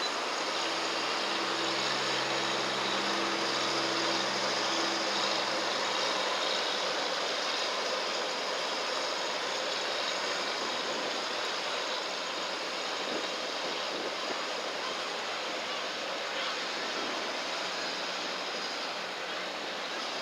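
Steady rushing noise of riverside ambience, with a low engine hum from about one to five seconds in.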